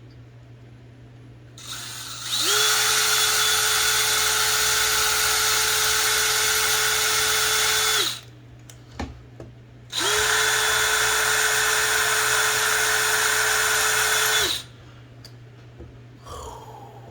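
Small power drill running twice, about six seconds and then about four and a half seconds, spinning up to a steady whine and winding down each time, cutting into a typewriter part.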